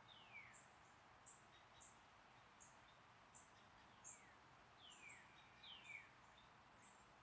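Faint birdsong over a soft, even outdoor hiss. Several clear whistles slide downward, one shortly after the start and three more between about four and six seconds in, with a steady run of short, very high chips repeating under them.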